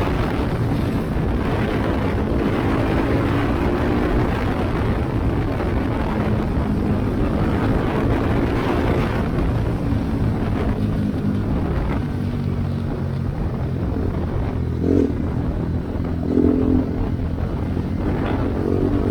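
BMW G310GS single-cylinder engine running through an Akrapovič exhaust with the silencer insert removed, with wind noise on the microphone while riding. Its pitch shifts as the rider works the throttle, and two brief louder bursts come about 15 and 17 seconds in.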